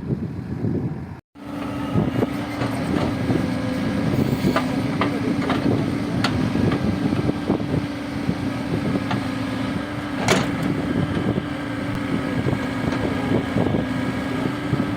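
Heavy earthmoving machine's engine running steadily, with many scattered metallic clanks and knocks. The sound cuts out for a moment about a second in.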